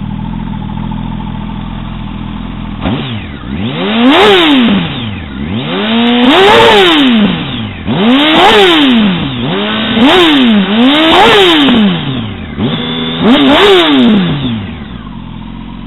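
2006 Yamaha R1's inline-four engine through a Graves carbon fiber slip-on cat-eliminator exhaust, idling, then revved about six times, each rev rising and falling in pitch, before settling back to idle near the end.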